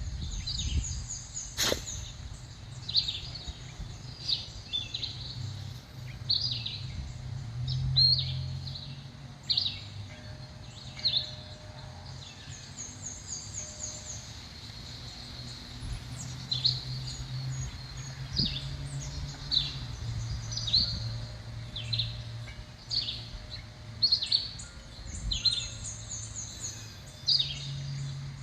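Small songbirds chirping and calling around a backyard bird feeder: many short, high chirps, a few rapid high trills, and a steady low hum underneath. There is one sharp click about two seconds in.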